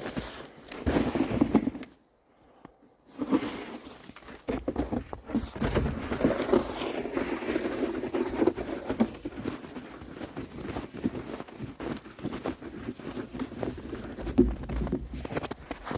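Snow crunching and scraping in a dense, irregular run, broken by a short quiet gap about two seconds in.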